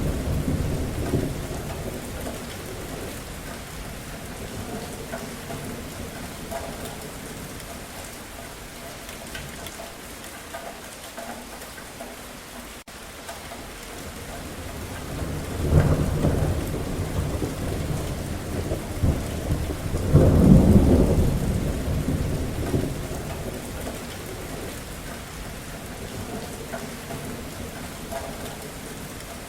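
Steady rain falling, with rolls of thunder: one dies away over the first couple of seconds, and two more low rumbles swell up about halfway through and again a few seconds later.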